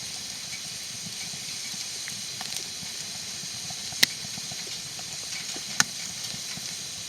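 Wood fire burning in a camp fire stove: a steady hiss with faint crackling and two sharp pops of the burning wood, one about four seconds in and another shortly after.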